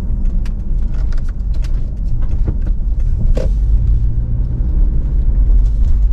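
A car driving, heard inside the cabin: a steady low rumble of engine and road, with scattered light ticks and one sharper knock about three and a half seconds in.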